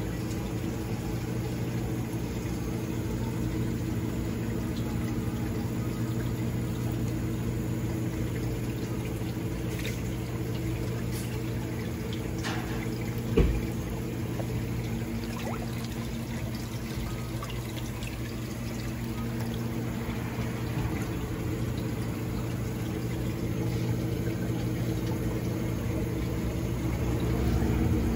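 Water running and pouring in a minnow bait tank over the steady hum of its pump motor, with a single knock about halfway through.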